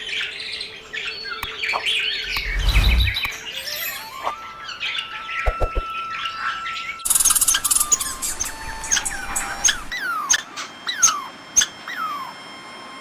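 Birds chirping and calling, in two stretches: a busy mix of calls at first, then about seven seconds in, after an abrupt change, a run of short chirps that each fall in pitch.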